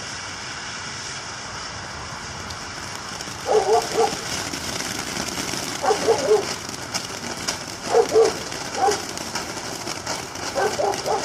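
A small fountain firework spraying with a steady hiss, crackling picking up near the end. A dog barks over it in short bursts, five times about two seconds apart; the barks are the loudest sound.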